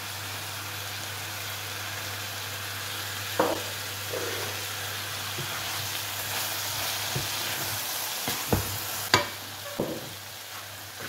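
Chicken and vegetables sizzling in a frying pan while a spatula stirs them. The spatula knocks against the pan a few times, mostly in the second half.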